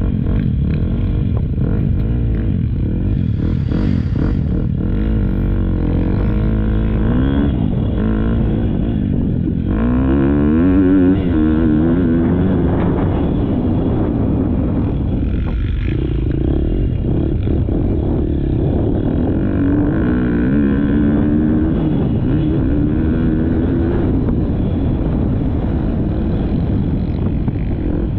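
Motocross bike engine revving up and falling off again and again as the rider opens and closes the throttle through the gears, heard from the bike's onboard GoPro.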